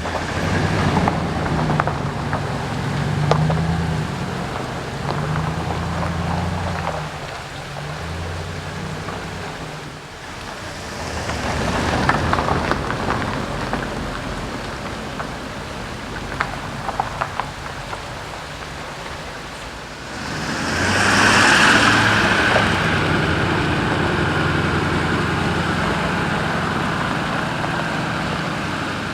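Vehicle driving on a gravel dirt road: the engine hums with a rising and falling pitch while the tyres crunch and tick over loose stones. About twenty seconds in, a louder rushing noise swells up and holds.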